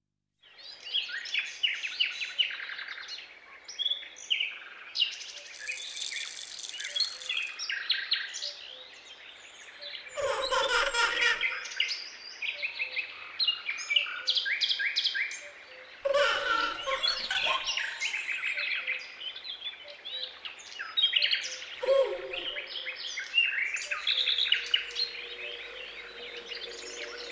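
Many birds chirping and singing at once, quick chirps and trills overlapping, with fresh louder bursts about ten, sixteen and twenty-two seconds in.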